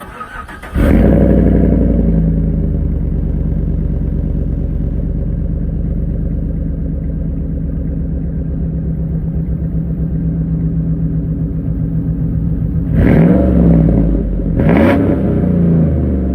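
2011 Chevrolet Silverado engine cranked over and catching just under a second in, running at a fast idle that settles to a steady idle, then revved twice near the end. Heard through a 3-inch exhaust with a Jones full bore single chamber muffler and a 4.5-inch axle dump.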